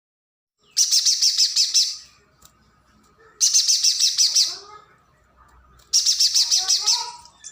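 Pijantung gunung (a spiderhunter) singing three loud, fast bursts of rapid high-pitched notes, each lasting about a second, with a few softer, lower chirps in the pauses between them.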